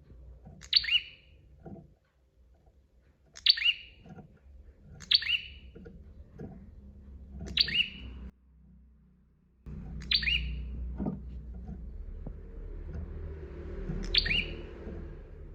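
Prinia (prenjak) calling: a short, sharp chirp repeated about every two to three seconds, each call dropping quickly from high to lower pitch, over a low background rumble that drops out briefly past the middle.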